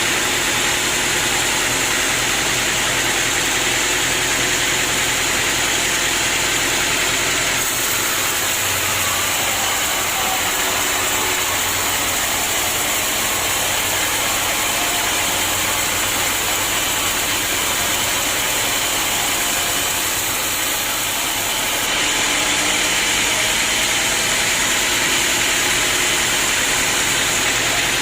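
Sawmill machinery running steadily: a loud, constant mechanical drone with a high hiss, changing slightly in tone about eight seconds in and again near the end.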